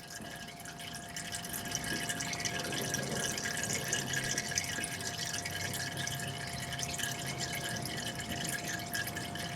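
Hot engine oil draining from a 6.7 Cummins diesel's oil pan through a Geno's cap-off drain tool, a steady pouring trickle that builds over the first second or two and then holds. A faint steady high tone runs underneath.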